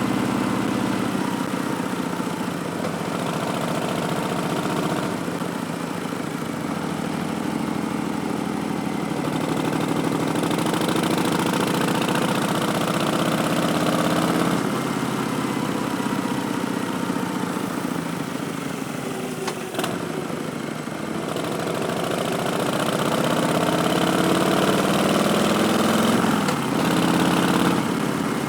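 Harley-Davidson Street Bob's V-twin running through V&H Twin Slash slip-on exhausts and an Arlen Ness Big Sucker intake, under way, its pitch rising and falling several times as the revs build and drop. A sharp click about two-thirds of the way through, and a falling sweep near the end as the revs drop off.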